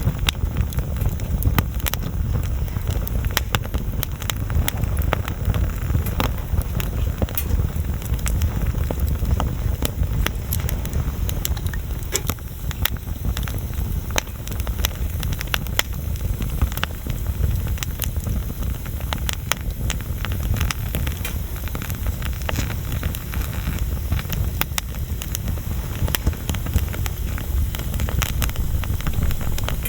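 Wood bonfire burning, with frequent irregular crackles and pops of burning wood over a steady low rumble.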